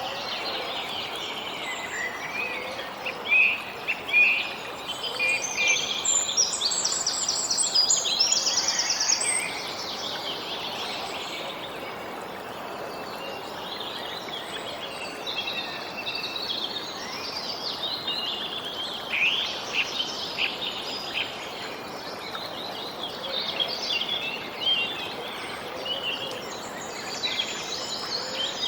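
Songbirds chirping and singing on and off over a steady hiss of background noise, with the chirping busiest in bursts rather than evenly spread.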